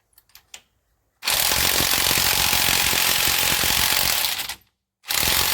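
Electric impact wrench running in reverse, hammering to loosen a lug nut on the truck's wheel: one long burst of about three and a half seconds, a short stop, then a second burst near the end.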